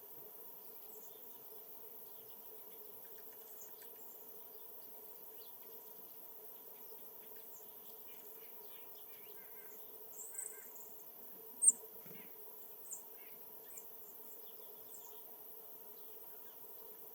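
Small birds giving short, high-pitched chirps, a handful between about ten and fifteen seconds in, one much louder than the rest, over a faint steady background hum.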